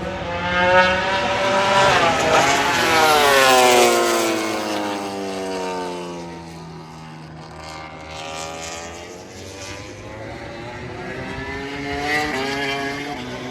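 MotoGP race motorcycles passing at speed: a 1000 cc four-cylinder racing engine screams past, its pitch falling steadily as it goes by, and another bike comes through near the end.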